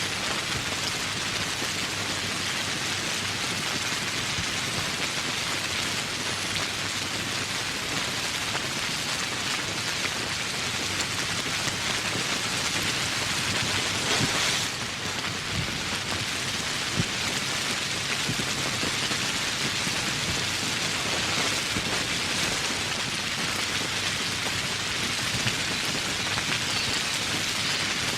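Steady rain, an even hiss with individual drops pattering on surfaces, and one brief louder splash about halfway through.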